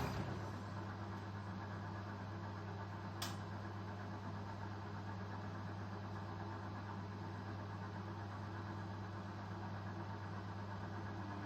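Indesit Ecosense washing machine running with a steady low hum, with a single sharp click about three seconds in.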